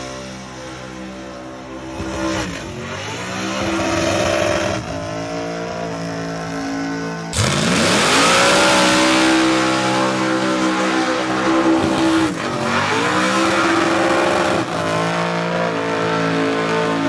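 A car engine revving hard and held at high revs during a burnout, with tyre squeal. The pitch dips and climbs back twice, and a sudden louder, harsher stretch starts about seven seconds in.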